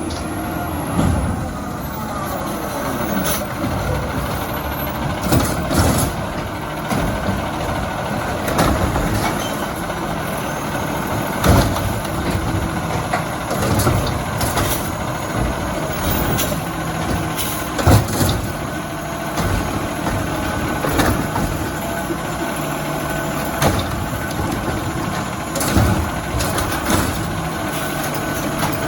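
Diesel Autocar ACX garbage truck with a Bridgeport Ranger body running, with repeated sharp bangs and clanks every few seconds over the engine.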